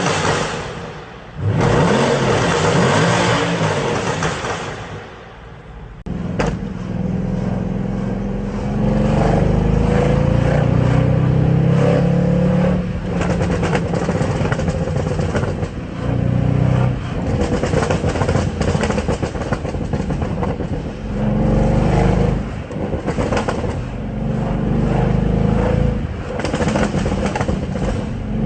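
Mercedes-AMG car engine and exhaust revving and accelerating. The engine note rises in pitch again and again, with short drops between pulls, and there is a brief quieter spell about five seconds in.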